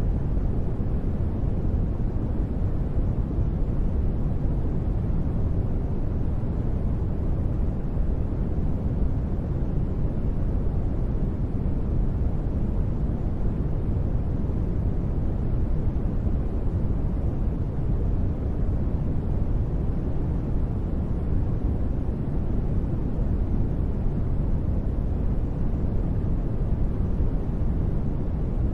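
Continuous sleep noise, sold as white noise but weighted toward the low end, so it sounds deep and dull rather than hissy. It holds perfectly even, with no sudden sounds.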